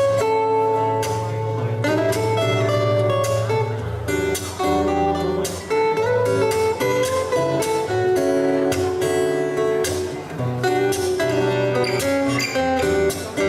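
Acoustic guitar playing an instrumental passage of a pop ballad, plucked notes and strummed chords.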